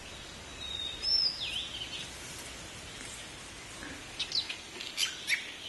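Bird calls over a steady background hiss of forest ambience. About a second in there is a whistled call that slides up and then drops sharply, and near the end a quick run of short, high chirps.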